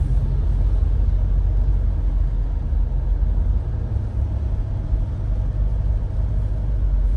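Steady low rumble of a car driving, heard from inside the cabin: engine and tyre noise on a wet road.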